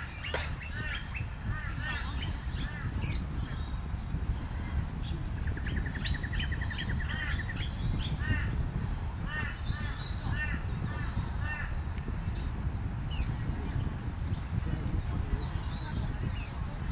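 Birds calling with short, harsh calls repeated many times, including a quick run of calls about six to seven seconds in, over a steady low rumble.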